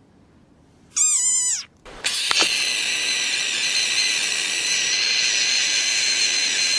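A short wavering animal call about a second in. Then, from about two seconds, an animal gives one long, steady, high-pitched scream.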